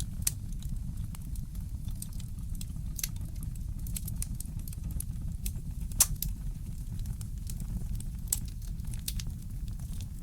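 Fireplace fire crackling, with scattered sharp pops over a steady low rumble; the sharpest pop comes about six seconds in.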